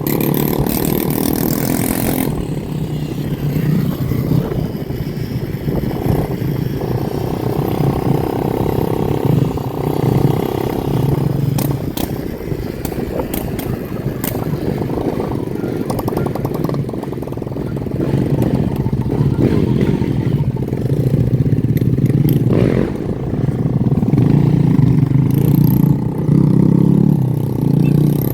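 Motorcycle and dirt bike engines running and revving, with occasional clatter.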